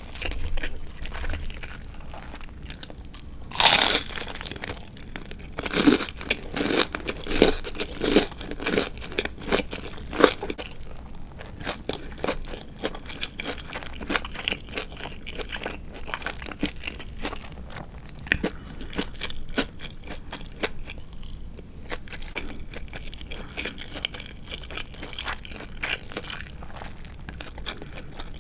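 Crunchy chewing of crisp deep-fried marinated chicken (tatsuta-age): a loud crunchy bite about four seconds in, then a run of crunching chews over the next several seconds, settling into softer chewing.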